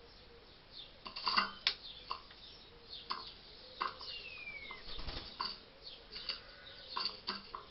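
A wild hedgehog eating at a feeding dish: irregular crunching and clicking as it chews and its snout knocks the bowl. About four seconds in, a single short falling whistle is heard.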